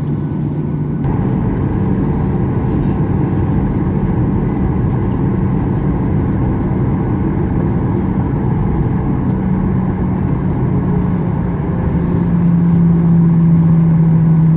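Jet engine noise heard inside the cabin of a Boeing 737-800 with CFM56-7B engines: a steady hum with a low drone. The drone grows louder about twelve seconds in.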